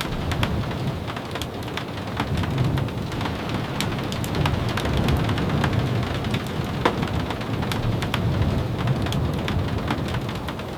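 Steady rain falling, with a low, even rumble underneath and scattered sharp ticks throughout.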